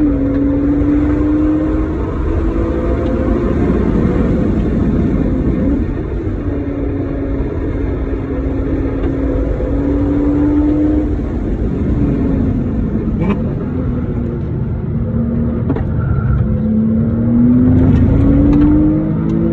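Porsche Cayman S (987) 3.4-litre flat-six engine heard from inside the cabin, pulling at high revs, easing off about twelve seconds in, then revving up again under acceleration near the end, with road and tyre noise.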